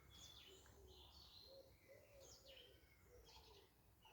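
Faint woodland birdsong: small birds chirping high, over a low cooing note repeated about twice a second.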